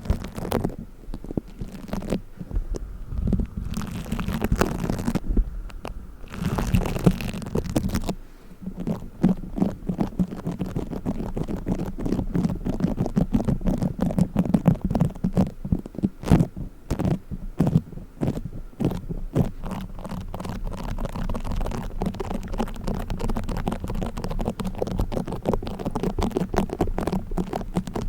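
Play foam squeezed and kneaded close to the microphone, giving a dense run of small crackles and rubbing sounds.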